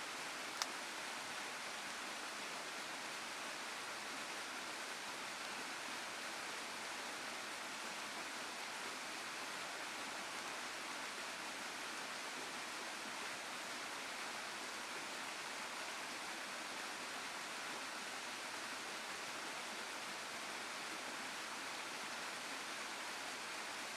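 A waterfall rushing steadily, an even hiss of falling water, with one sharp click about half a second in.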